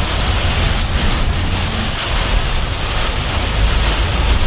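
Storm-force wind blasting over the microphone: a loud, steady rush with heavy low buffeting rumble.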